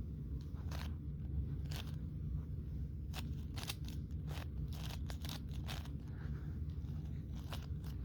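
A 5x5 twisty puzzle cube being turned by hand: irregular plastic clicks and clacks as its layers are turned, over a steady low hum.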